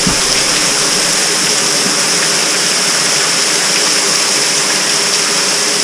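Water falling from a tunnel roof like rain, a steady hiss of splashing and dripping.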